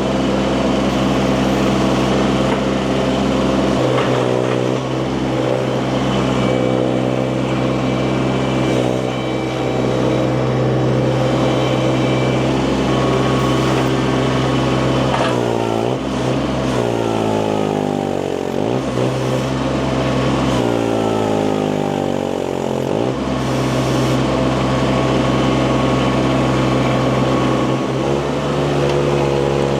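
Mini skid steer's engine running steadily; from about halfway its pitch repeatedly drops and climbs as it is throttled and loaded, and it does so once more near the end.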